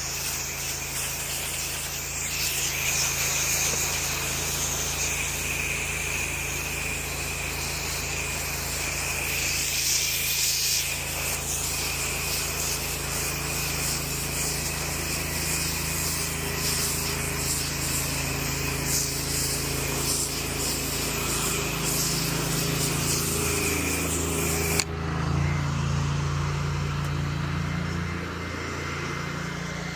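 Pressure washer spraying in a steady hiss over the drone of its engine. About 25 seconds in the spray cuts off with a click, and the engine runs on alone with its note changing.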